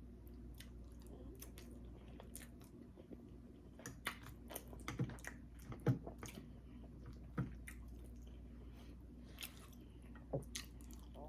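A person chewing food close to the microphone, with scattered short mouth and lip clicks, several louder ones in the middle stretch.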